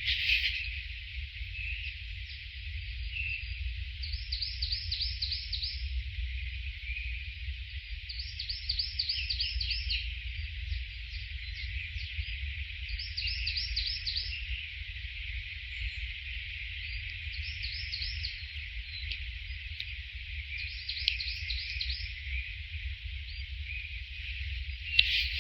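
A songbird singing short phrases of rapid repeated chirps every few seconds over a steady high hiss of insects, with a constant low rumble underneath.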